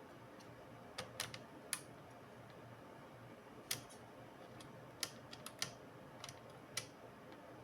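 Light, irregular clicks and taps of small tools and plastic parts being handled while taking apart a laptop, about a dozen sharp ticks with a small cluster around the middle.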